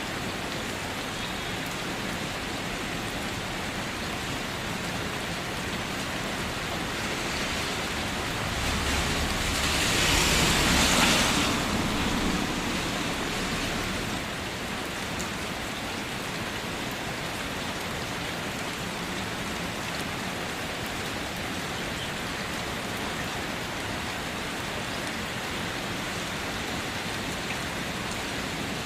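Steady rain falling on a car. About a third of the way in it grows louder for several seconds, with a low rumble underneath, then settles back.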